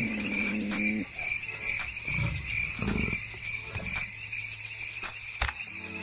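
Night chorus of crickets and other insects, a steady high trilling. A low pitched hum stops about a second in, and a sharp click comes near the end.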